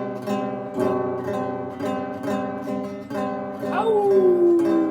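Acoustic guitar strummed in a steady blues accompaniment, chords struck about every half second. Near the end a long held note slides downward over the strumming.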